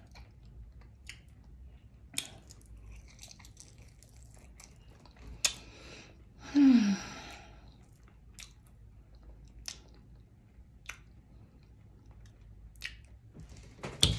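Close-up chewing of a mouthful of fried fish and okra, with soft wet mouth clicks and lip smacks. About six and a half seconds in comes a brief falling 'mm' from the eater, the loudest sound here.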